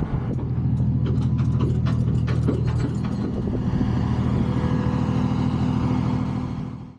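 A vehicle engine idling steadily, with a few light clicks and taps over it in the first few seconds. The sound cuts off abruptly at the end.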